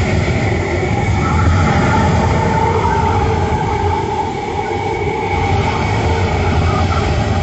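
Hurricane-force wind blowing hard and steadily: a loud, constant rumbling rush with faint whistling tones that waver in pitch.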